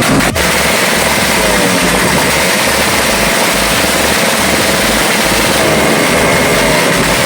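A loud car engine running, with an uneven low pulsing under a steady rushing noise.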